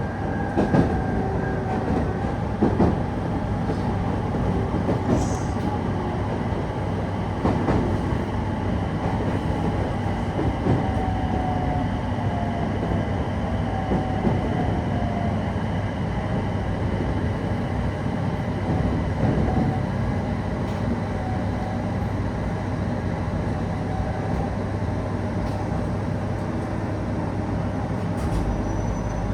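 Train running along the line, heard from inside the carriage: a steady rumble of wheels on rail with scattered clicks from the track and a thin tone that slowly falls in pitch partway through.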